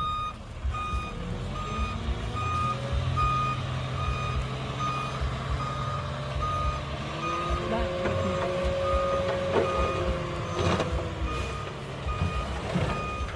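Dump truck's reversing alarm beeping at an even pace, over its diesel engine running, with the engine pitch rising about seven seconds in.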